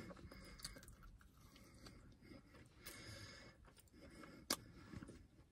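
Faint, soft chewing of a mochi donut, with one sharp click about four and a half seconds in.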